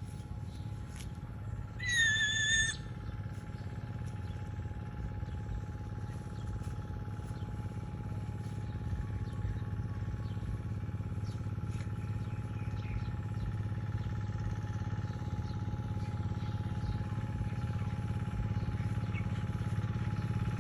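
Steady low hum like a running engine, with a thin steady tone above it, and one short high whistle-like call about two seconds in.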